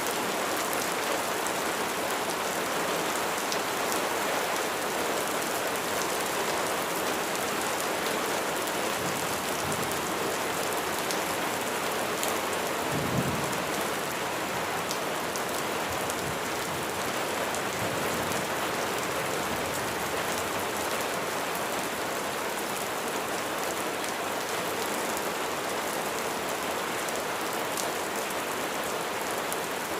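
Steady rain falling on a surface, a dense, even hiss of drops. A little under halfway through, a low rumble of distant thunder swells briefly and fades.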